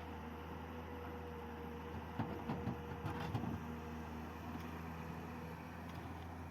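L&T Komatsu excavator's diesel engine running steadily, a low hum with a faint steady whine, with a short cluster of knocks and rattles about two to three and a half seconds in.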